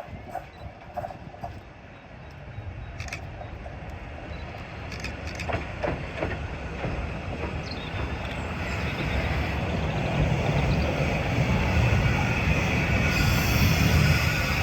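A train approaching along the line, its low rumble growing steadily louder, with a few sharp metallic clanks in the first half and a high hiss coming in near the end.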